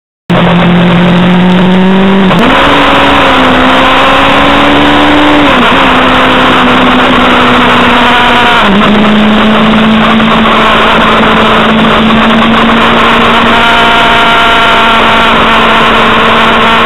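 Motorcycle engine running at speed on a race track, heard onboard with heavy wind rush. Its note jumps up about two seconds in, drops back about five seconds later, dips briefly near the middle, then holds steady.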